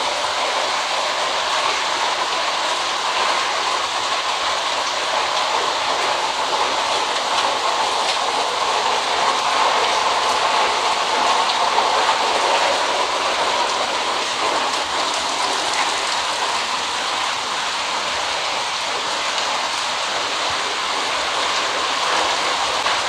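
Heavy rain falling steadily onto floodwater, an even hiss of drops splashing on the water's surface.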